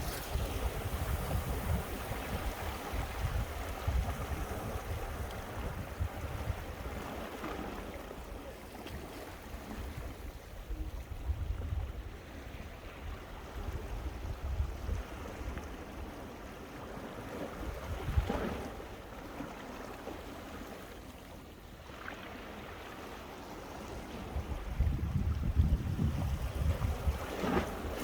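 Sea waves breaking on coastal rocks, with cold winter wind gusting against the microphone. The surf swells and eases, louder near the start and again near the end, with a quieter lull in between.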